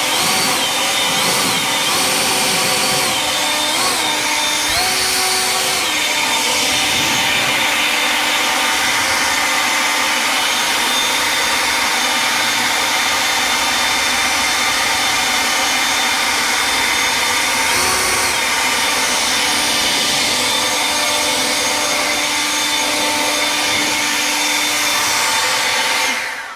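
EGO LB5302 battery-powered leaf blower running flat out with a steady fan whine. The pitch jumps up briefly several times in the first few seconds and once more about two-thirds of the way through as the turbo boost is pressed, and the blower winds down near the end.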